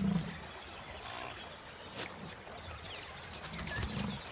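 Bush ambience: an insect trills steadily on a high note in stretches with short breaks, over a few faint low grunts and clicks.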